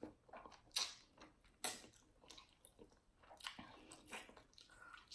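Someone biting and chewing a barbecue-sauced chicken wing close to the microphone: a few faint, separate mouth clicks and smacks.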